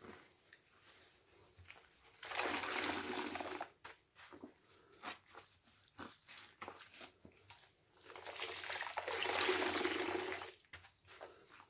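Sponge soaked in washing-machine liquid squeezed hard twice, each squeeze a rush of squelching suds and liquid running out that lasts a second or two. Small crackles and clicks between the squeezes.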